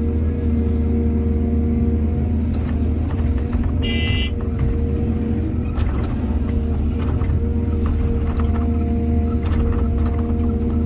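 Excavator's diesel engine running steadily with a low, even drone, with scattered knocks and clanks. A brief high-pitched squeal comes about four seconds in.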